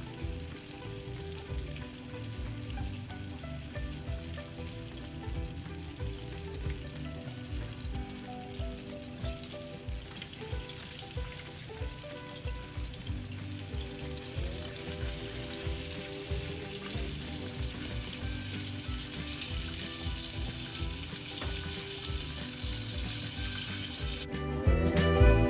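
Chicken pieces frying in hot oil, a steady sizzle, with background music and a steady beat playing underneath. About a second before the end the sizzle cuts off and the music gets louder.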